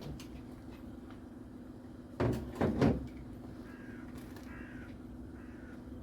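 Crows cawing in the distance, several short calls in the second half, over a steady low hum. About two seconds in, a loud double clatter or knock lasting under a second stands out above everything else.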